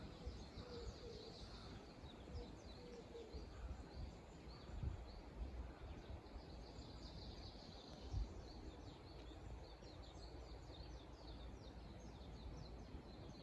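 Faint outdoor ambience with small birds chirping over and over in short high notes, and a couple of low bumps about five and eight seconds in.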